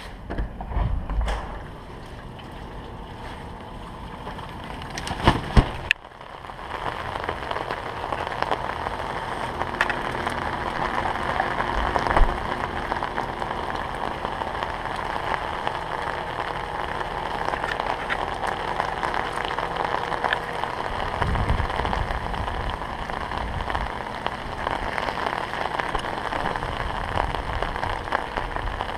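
Rain falling steadily, an even dense patter. Before it, about six seconds of low rumble and a few knocks end with an abrupt cut.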